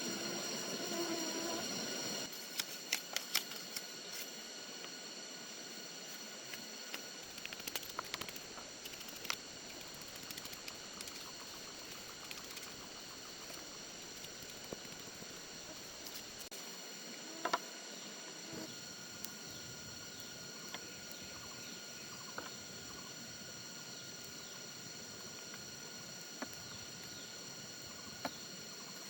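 Quiet outdoor ambience with steady high-pitched ringing tones and a faint noisy background. Scattered light clicks and snaps come in a cluster a few seconds in, again around eight seconds, and once more sharply past the middle.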